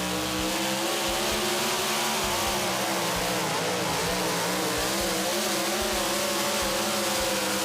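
Four-wheel-drive pulling truck's engine running flat out while it drags the sled down the track, its pitch wavering up and down throughout as the truck bounces hard.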